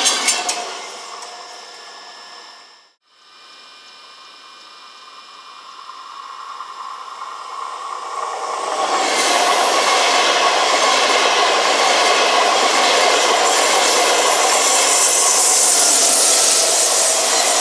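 ÖBB Railjet high-speed train passing close at speed: a steady rush of wheels on rail and air that builds over several seconds as it approaches, then holds loud. Before it, the sound of the previous train fades and drops to near silence about three seconds in.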